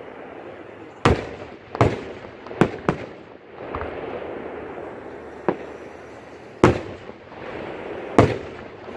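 Aerial fireworks shells bursting: seven sharp booms at irregular intervals, the loudest about a second in and near seven seconds, each trailing off with an echo, over a steady background noise.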